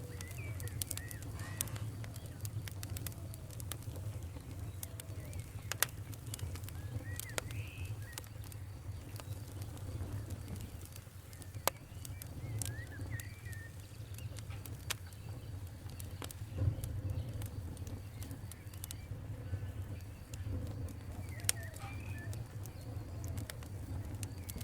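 Wood fire crackling, with irregular sharp pops and snaps over a steady low rumble. A few faint short chirps, like birds, come through about four times.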